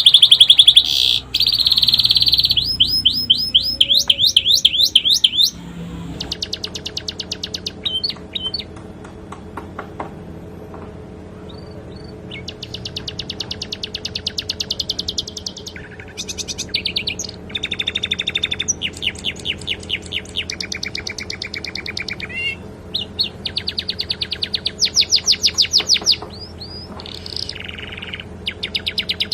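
Domestic canary singing long, rapid trills made of fast repeated high notes, one run after another with short pauses between them. The song is filled in with learned sikatan londo phrases. It is loudest in the first few seconds, and after that a faint steady hum sits under it.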